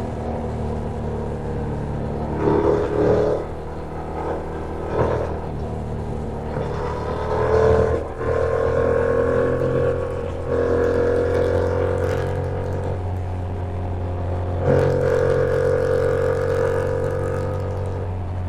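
Yamaha MT-07 parallel-twin motorcycle engine heard from on board while riding, its pitch climbing in repeated surges as the throttle opens, with a brief drop about eight seconds in.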